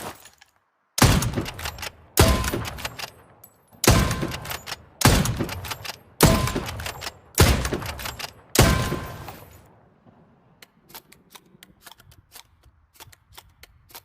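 Hunting rifle shots, seven in a row about a second apart, each sharp crack followed by a decaying echo. They are followed by a few faint clicks near the end.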